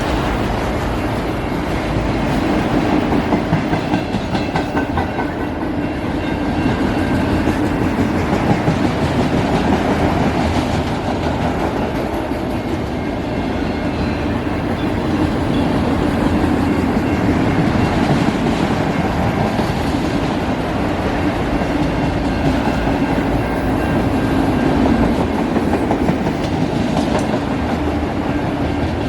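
Freight train's autorack cars rolling past at steady speed, the wheels clicking over rail joints in a continuous clickety-clack over a steady rumble.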